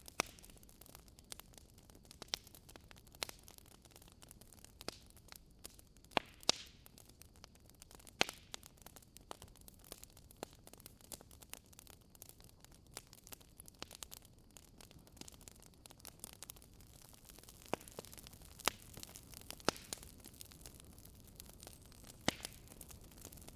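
Wood fire burning in a fireplace: a low steady hiss with irregular sharp crackles and pops from the burning logs, a few louder snaps among them.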